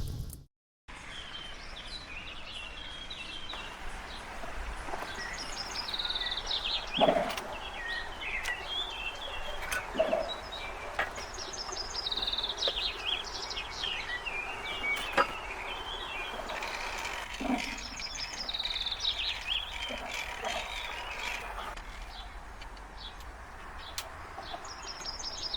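A songbird singing a short phrase of high notes that slides downward, repeated every several seconds, over a steady outdoor hiss. A few short knocks sound among the birdsong.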